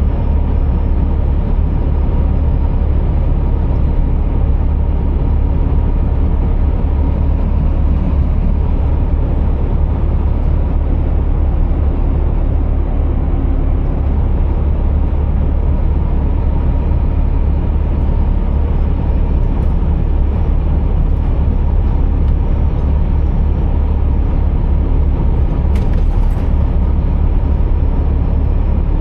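Scania R480 truck running steadily: a constant low engine drone with an even rushing noise over it and a faint steady whine.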